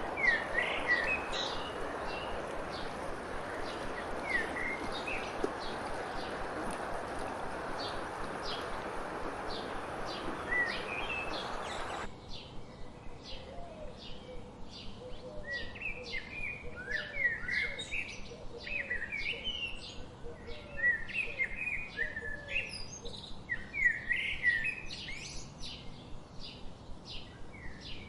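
Several wild songbirds singing and chirping. For the first twelve seconds or so the calls are scattered over a steady rushing background noise. That noise cuts off abruptly, and a busy chorus of short, high chirps and trills follows, with a quieter series of lower calls beneath.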